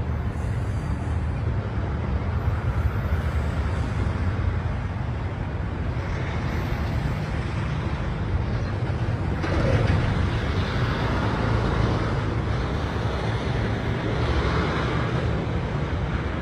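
Freight train of tank cars rolling past: a steady rumble and noise of steel wheels on rail.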